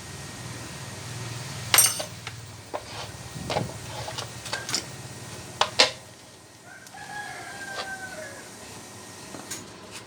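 A rooster crowing once in the background, one held call falling slightly at the end, after several sharp knocks of work on metal parts in the first half.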